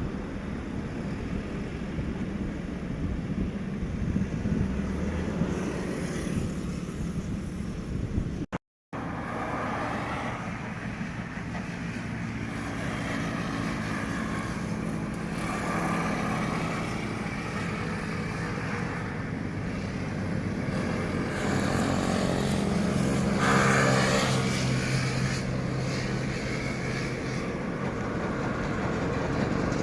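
Airliner engines on a landing approach: a steady engine sound with tones that slowly shift in pitch, getting louder to a peak a little over 20 seconds in. Wind on the microphone during the first several seconds, with a brief dropout to silence about nine seconds in.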